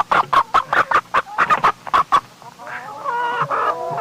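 Domestic hens clucking: a fast run of short, sharp clucks, about five a second, for roughly two seconds, then longer drawn-out calls that overlap one another.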